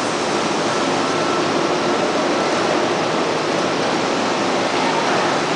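Steady rushing noise of a train running close by, with a faint thin whine for a moment about a second in.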